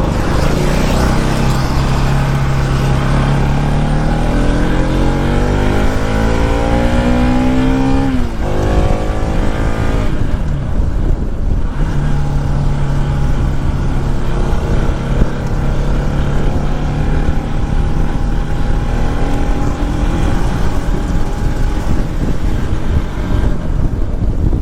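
Motorcycle engine heard from the rider's seat, accelerating with its pitch climbing for several seconds. The pitch drops sharply at a gear change about eight seconds in, climbs again, then holds steady at cruising speed over road noise.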